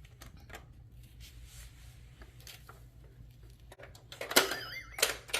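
Faint tapping and clicking of a baby's hands on a plastic VTech Bear's Baby Laptop toy. Near the end comes a loud knock and a short, high, warbling sound.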